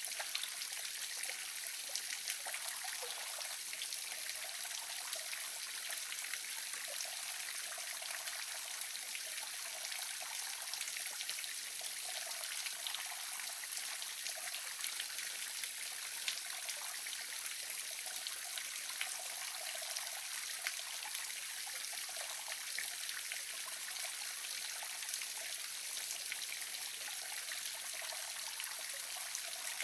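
Small waterfall splashing steadily: an even, hissing rush of falling water with little deep rumble and scattered small splashes and drips.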